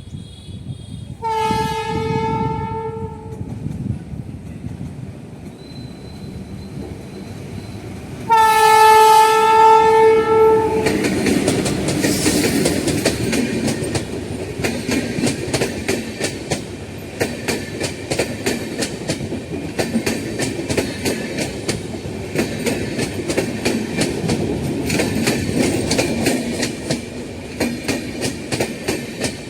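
Passenger-train locomotive horn sounding two long blasts, a few seconds apart. Then the train runs past, its coaches' wheels clattering rhythmically over the rail joints.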